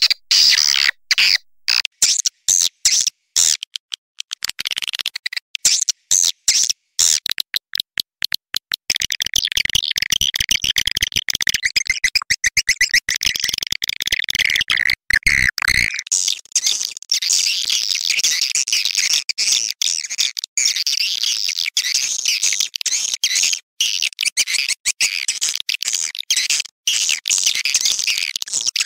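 Swiftlet lure-call recording of the kind played to draw swiftlets into a nesting house. It opens with rapid stuttering clicks and chirps broken by short gaps. From about nine seconds in it becomes a dense, unbroken high-pitched twittering chorus.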